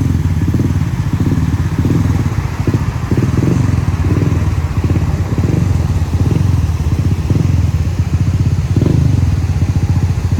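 A large engine running steadily, a low pulsing sound with no breaks.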